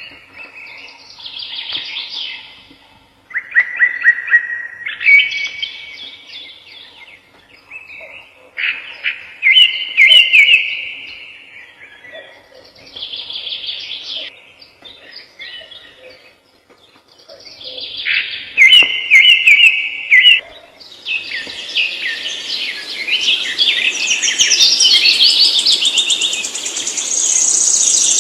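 Birds singing in short, rapid chirped phrases with gaps between them. About three-quarters of the way in, the phrases give way to a dense, continuous chorus of many chirps, higher and louder.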